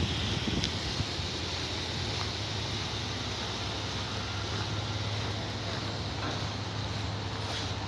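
2012 Subaru Outback's engine idling steadily: an even, unbroken low hum.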